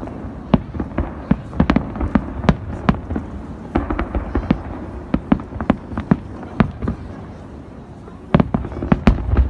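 Fireworks display: a rapid, irregular volley of sharp shell bursts, several a second, easing off about seven seconds in before a last cluster of louder bangs near the end.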